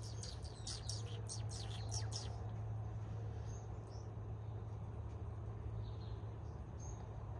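A bird calling: a quick run of sharp, high chirps, several a second, for about the first two seconds, then a few faint calls. A steady low hum runs underneath.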